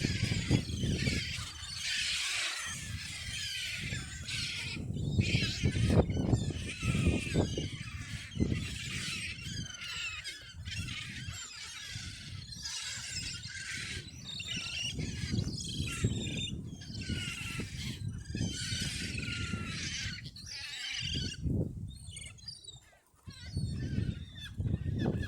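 A crowd of waterbirds calling in quick overlapping bursts of high, shrill calls as they jostle to be fed bread, over a low rumble of wind on the microphone.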